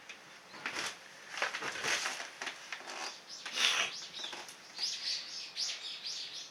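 Irregular rustling and crackling noises, then a bird chirping in quick, high repeated notes near the end.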